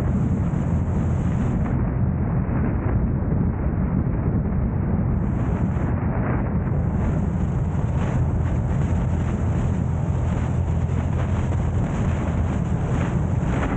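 A car driving: a steady low road and engine rumble with wind noise on the microphone.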